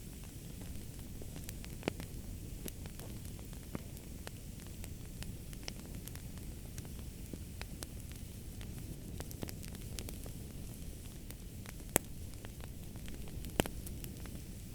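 Wood fire crackling in a fireplace: a steady low rumble of the burning fire with many small crackles, and a few louder pops, one about two seconds in and two near the end.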